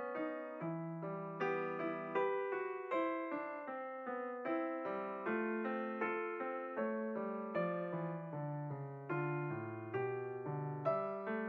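Gentle background piano music, notes and chords struck every half second or so and fading away.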